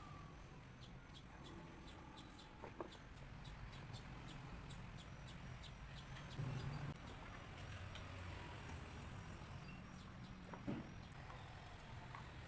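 Low steady hum with two brief animal calls, one about three seconds in and one near the end, and faint quick ticking in the first half.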